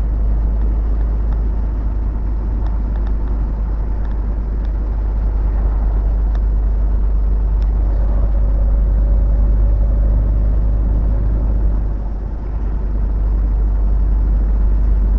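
Steady low drone of engine and road noise inside a truck cab on the highway, with a faint held tone rising out of it for a few seconds in the middle and a brief dip in loudness near the end.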